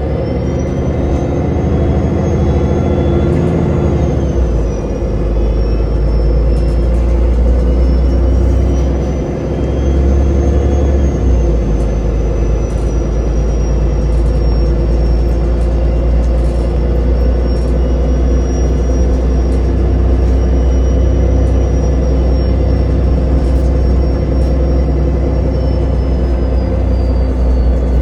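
Ride inside a moving city transit vehicle: a steady deep rumble with a thin high whine that rises and falls gently with speed.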